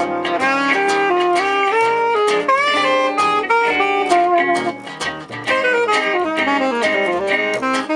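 Gypsy jazz band playing live: a melody line moving over steady rhythmic guitar chords.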